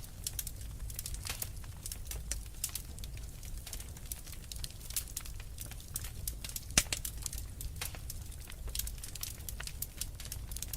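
Wood fire in a fireplace crackling, with dense irregular snaps and pops over a low rumble of burning logs; one sharper pop stands out about seven seconds in.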